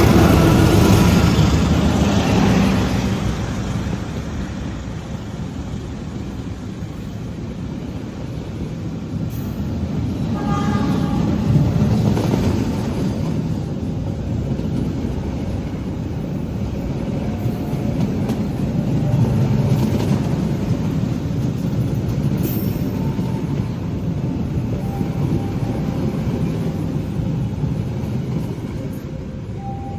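A train running through the station without stopping: a steady rumble of wheels on rail, loudest at first and easing off, with a short horn sound about eleven seconds in.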